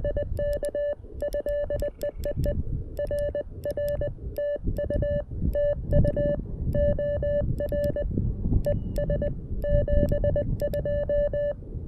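Morse code (CW) from the CFT-1 transceiver: a single steady beep of about 600 Hz keyed on and off in rapid dots and dashes, with low rushing noise underneath.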